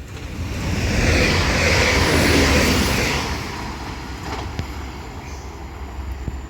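Northern Class 195 diesel multiple unit passing through the station at speed: a rush of wheel, engine and air noise over a low rumble, swelling to a peak about two seconds in and then fading away.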